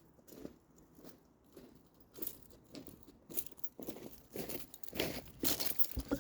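Footsteps crunching, irregular and growing louder toward the end as they come closer.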